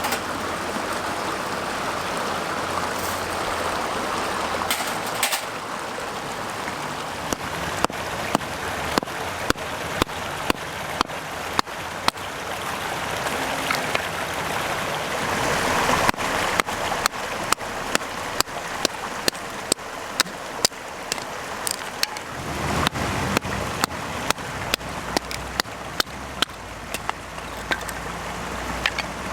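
Steady rush of a stream. A regular series of sharp clicks, about two a second, comes in near the quarter mark and runs on in stretches.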